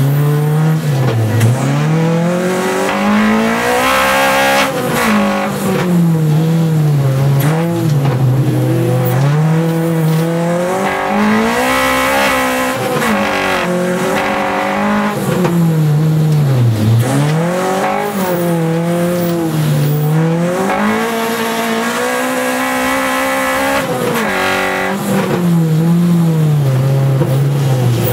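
Honda Civic's K20 four-cylinder race engine heard from inside the car, revving up and dropping back again and again every few seconds as the car accelerates and lifts through the corners of an ice-racing circuit.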